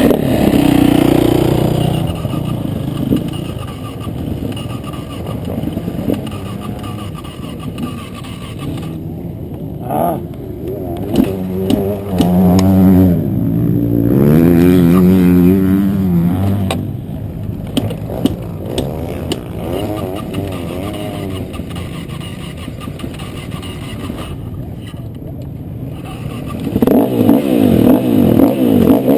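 Motocross bike engine revving hard and easing off over and over, its pitch climbing and dropping with the throttle. It is loudest in a long sweeping rev in the middle and again near the end.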